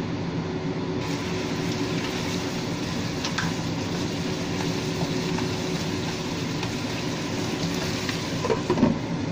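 Chicken pieces sizzling in sauce in a nonstick wok as a spatula stirs and turns them, with a few light clicks of the spatula on the pan and a couple of louder knocks near the end. A steady low hum runs underneath.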